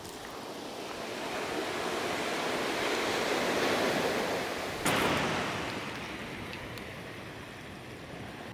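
Ocean surf breaking on a beach: the rush of water swells over the first few seconds, a wave breaks sharply about five seconds in, then the wash fades away.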